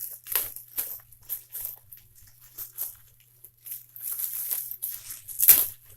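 Packaging rustling and crinkling in short, irregular handfuls as items are dug out of a box, with the loudest crackle near the end.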